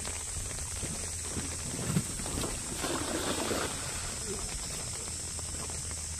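Steady hiss of falling rain, with a dull thump about two seconds in and a brief rustling swell around three seconds in.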